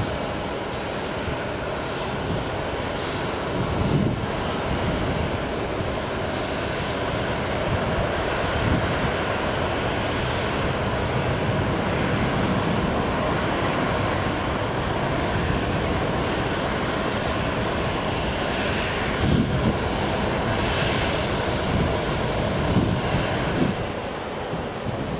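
Jet airliner engines running, a steady noise with faint whining tones that swells slightly in the middle. A few brief low thumps stand out, one about four seconds in and several near the end.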